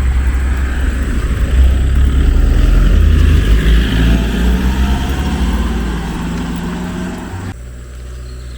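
A road vehicle passing close by: its engine and tyre noise swell over the first few seconds and then fade away, with the engine pitch sinking slightly as it goes.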